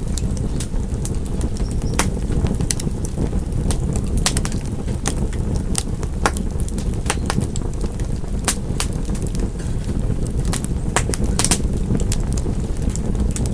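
Wood fire crackling in a fireplace: sharp, irregular pops and snaps, several a second, over a steady low rumble of burning.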